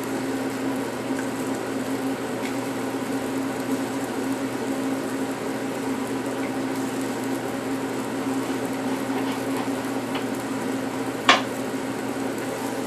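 Liver frying in clarified butter in a pan: a steady sizzle over a constant mechanical hum, with one sharp clink of a utensil on the pan near the end.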